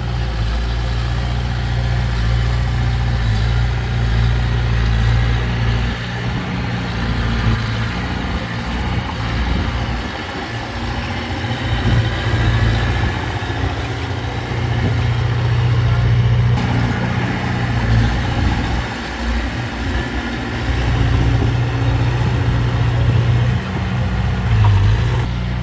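Heavy diesel engine of earthmoving equipment running, a steady low drone that dips and swells a few times.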